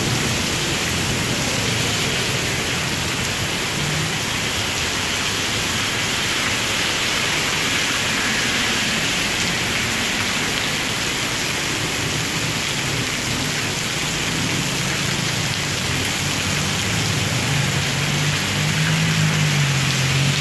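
Torrential rain pouring steadily onto the street and pavement, a dense, unbroken hiss. A low hum builds near the end.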